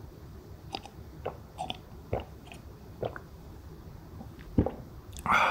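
A person chewing a mouthful of pork kimchi stew and rice, with soft mouth clicks at irregular intervals. A dull thump comes about four and a half seconds in, and a louder brief sound just before the end.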